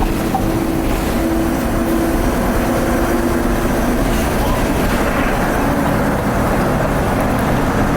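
Inside a 2010 Nova Bus LFS Articulated under way, its Cummins ISL diesel engine running with a steady drone over road rumble. The engine tone fades about halfway through and comes back near the end.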